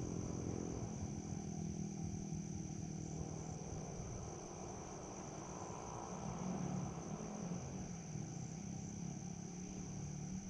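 Crickets chirping steadily in a high, even trill, over a low, steady engine-like hum.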